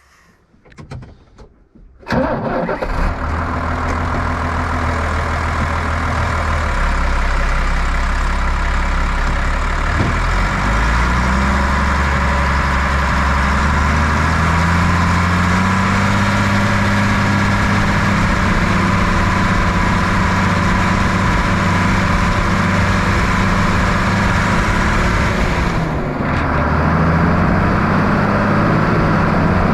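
Tractor diesel engine running, cutting in suddenly about two seconds in, its pitch rising and falling as the revs change.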